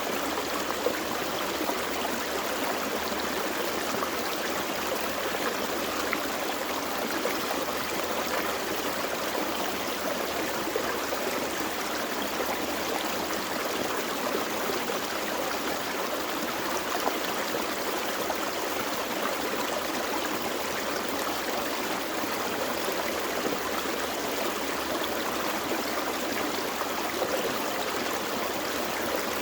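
Small forest creek flowing over rocks: a steady, even rush of water with fine splashing and gurgling.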